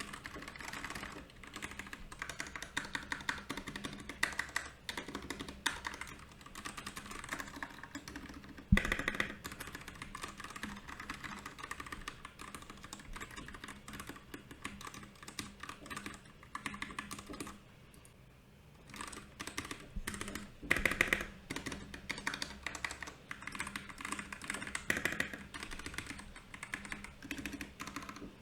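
Typing on a Royal Kludge RK68 mechanical keyboard: a fast, steady stream of key clicks. One louder thump comes about a third of the way in, the typing eases briefly past the middle, and it picks up again with a louder flurry.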